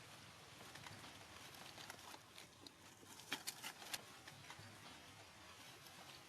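Faint scattered clicks and taps over a quiet hiss, with a cluster of sharper clicks about three to four seconds in.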